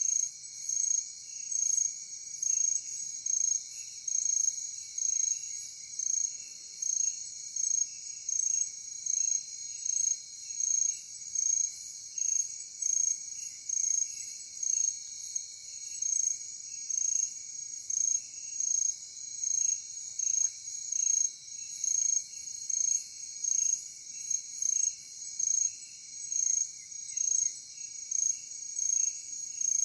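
Night insect chorus dominated by crickets: a high chirping that pulses evenly, about one and a half times a second, over a fainter, lower trill of other insects.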